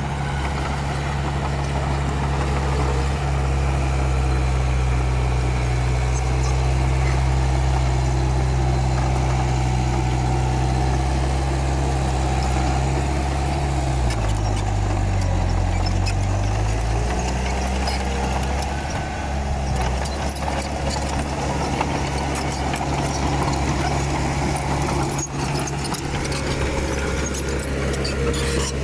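Komatsu D31P bulldozer's diesel engine running steadily, its pitch dipping and recovering about halfway through as it works under load, with faint metallic clinks.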